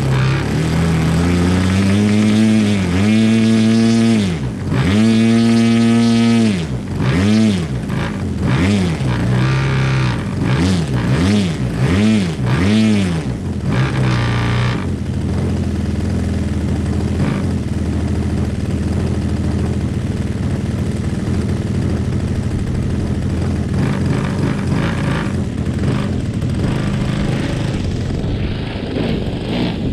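Desert Aircraft DA-50 single-cylinder two-stroke petrol engine of a giant-scale RC plane being run up in a ground test: the throttle is opened and closed so the engine revs up and down, held high for a few seconds, then blipped several times about once a second. After about halfway it runs steadily at an even speed.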